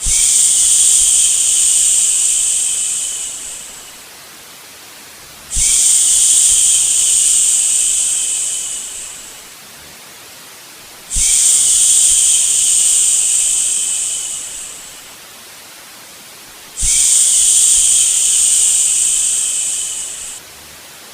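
A long 'shhh' shushing sound, repeated four times at an even pace. Each one lasts about four seconds, starts abruptly and fades out. Between them a softer, steady white-noise hiss goes on.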